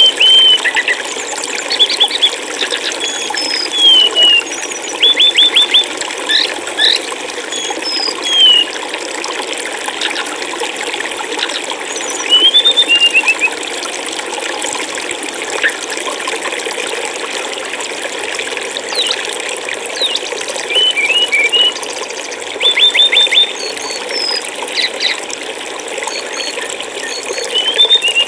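Steady flowing water, with small birds chirping over it in short phrases: quick runs of three or four notes and brief down-slurred whistles, the loudest sounds, coming every few seconds.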